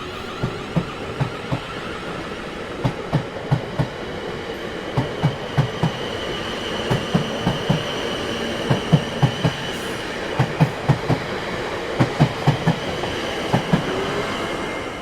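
Railway train rolling past, its wheels clacking over the rail joints in quick groups of two and three above a steady rumble, with a faint high squeal through the middle.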